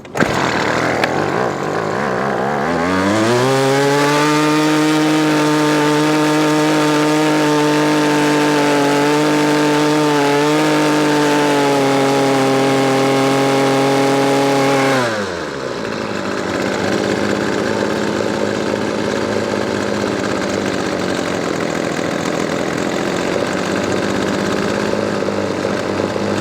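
Weed Eater Featherlite SST25's 25cc two-stroke trimmer engine revving up about three seconds in and holding a high steady speed. About fifteen seconds in it drops back to a lower steady speed, its RPM being varied as the carburetor screws are adjusted.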